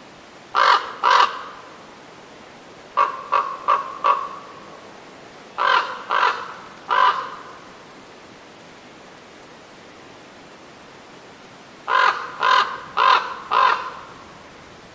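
A corvid cawing in short harsh calls, in groups: two caws, then four quick ones, then three, then after a pause of about four seconds, four more near the end.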